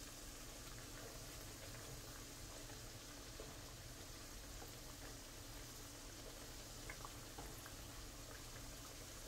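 Bananas frying in a pan of hot oil: a faint, steady sizzle and bubbling, with a few light knocks of a wooden spatula stirring them.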